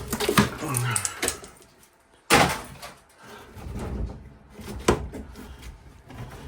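Knocks and clatter of tear-out work on a makeshift furnace plenum and its wood framing, with one loud bang a little over two seconds in.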